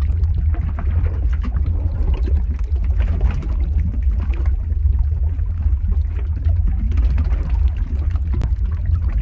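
Lava-flow ambience sound effect: a steady deep rumble overlaid with dense, irregular crackling.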